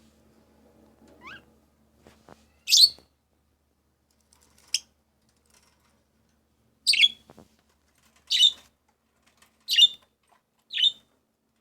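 Small pet birds chirping: about six short, sharp high chirps at irregular intervals, with a faint rising call about a second in.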